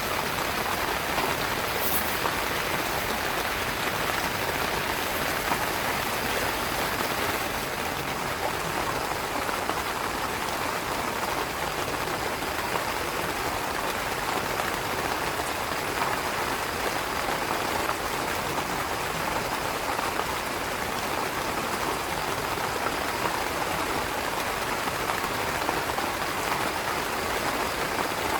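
Heavy rain falling steadily on a tent, an even, unbroken hiss of drops.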